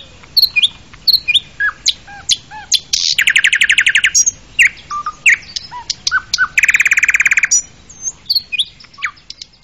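Birds singing: a string of short chirps and whistles, with two fast trills of about a second each, one about three seconds in and another about seven seconds in.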